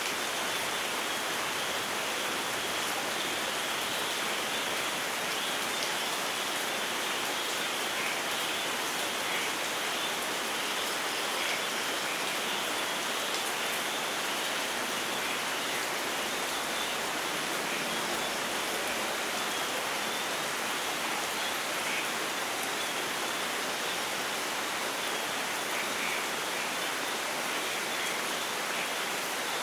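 Steady, even rainfall: a dense hiss of rain with no rise or fall and no thunder.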